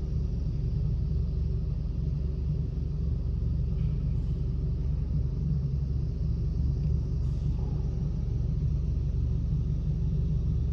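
Touch-free automatic car wash running: a steady low rumble with no clear starts or stops.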